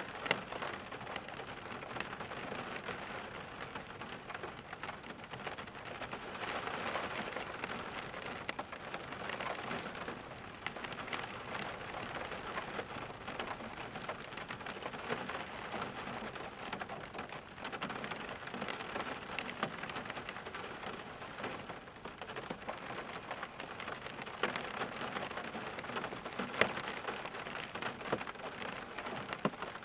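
Steady rainfall pattering, with many individual drops ticking through it and a few sharper drop hits.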